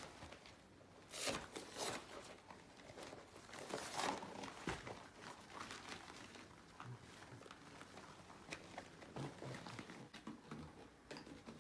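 Air pump pushing air into a balance ball: short, irregular puffs of hissing air, the loudest in the first four seconds.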